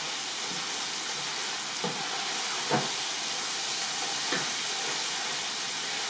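Chicken tikka masala sizzling in a pan with a steady hiss, the masala just thinned with a little water into gravy. A few light knocks of the stirring spoon sound against the pan.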